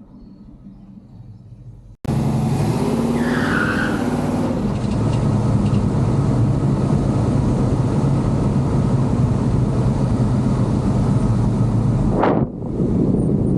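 The 1939 Chevrolet's 383 stroker small-block V8 with headers running loud as the car drives, cutting in suddenly about two seconds in, with a brief high squeal soon after and a short break near the end.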